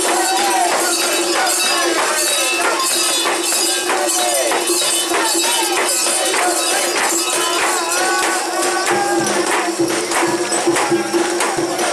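Portable shrine (mikoshi) procession: many bearers' voices calling and chanting over rhythmic metallic jingling, with a steady held tone underneath.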